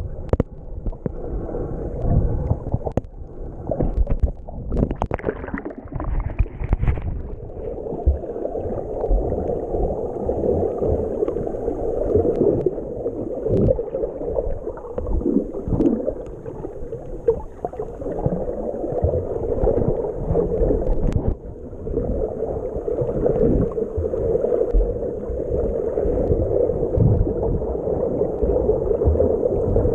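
Jet ski running across the water, heard muffled, with water splashing and low thumps buffeting the microphone.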